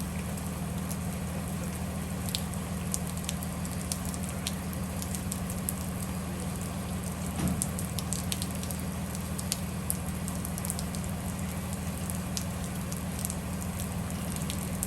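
Bus running, heard from inside: a steady low engine and road drone, with scattered light ticks and a patter of rain.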